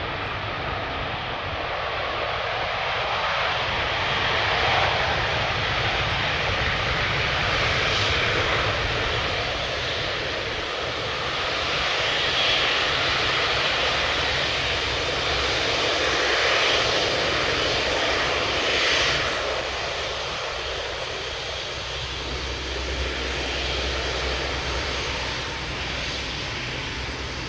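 Jet engine roar of an Airbus A380 landing, a dense, steady rush that swells and eases several times over the stretch.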